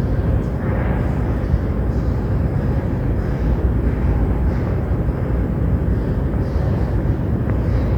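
São Paulo Metro train running, a steady low rumble with no distinct clicks or tones.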